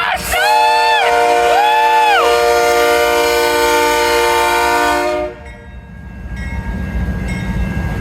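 A GE freight locomotive's multi-chime air horn sounds a loud, held chord, with short blasts swelling in and out over it. It cuts off about five seconds in, and a low rumble of the approaching train builds after it.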